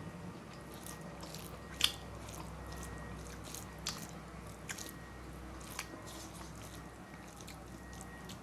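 Close-miked eating sounds: chewing and biting with scattered short crunches and wet smacks, the sharpest one about two seconds in.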